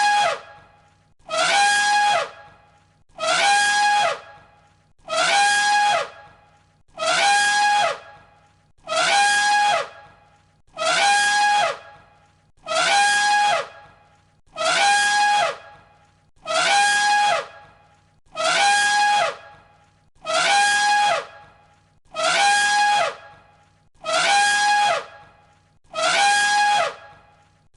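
Elephant trumpeting: one short, high trumpet call repeated as a loop about every two seconds, each call ending in a falling slide in pitch.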